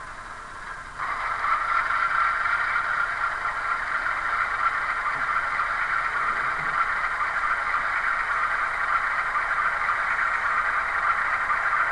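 A sound effect from the LokSound Select decoder in an Athearn GE AC4400 model locomotive, played through the model's small speaker: a steady hissing, squealing noise that switches on abruptly about a second in and holds.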